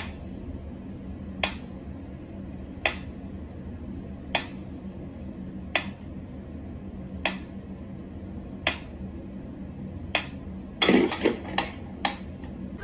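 Sharp single clicks or taps, one about every second and a half, over a steady low hum, then a quick flurry of five or six taps near the end.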